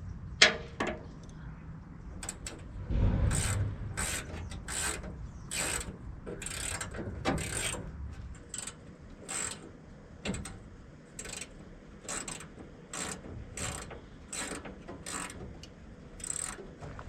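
Hand ratchet wrench worked in steady repeated strokes, a short burst of ratchet clicks about every two-thirds of a second, after a single sharp knock just after the start.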